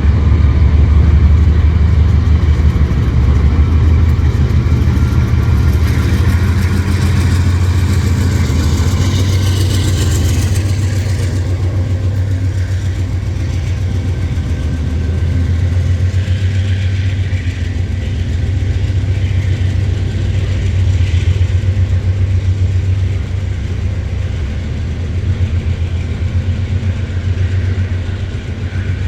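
Freight train of loaded ore wagons passing close, with a steady low diesel locomotive engine drone under the rolling noise.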